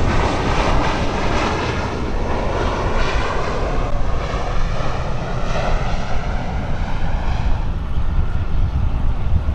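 Airliner engines running as the aircraft moves past, a whine that slides down in pitch over a deep rumble and fades near the end.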